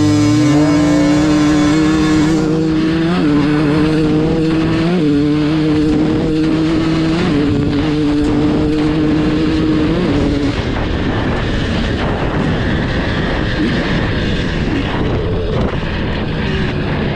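2022 KTM 300 XC-W two-stroke dirt bike with a full FMF exhaust accelerating hard. The engine revs up quickly, then holds a high, raspy pitch that jumps up and down at a few gear shifts. Its tone fades into rushing noise about ten seconds in.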